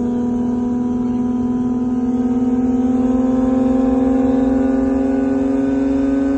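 Car engine pulling hard under acceleration, its note rising slowly and steadily in pitch as the revs climb through a gear.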